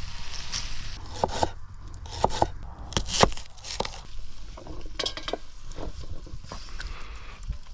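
Irregular clinks, knocks and scrapes of a cooking pot and food being handled, with some rustling and crinkling.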